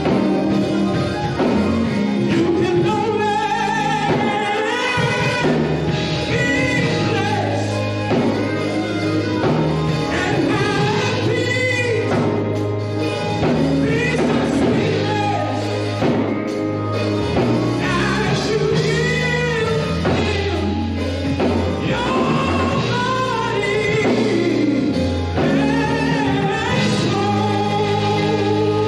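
Gospel song: singing over instrumental accompaniment.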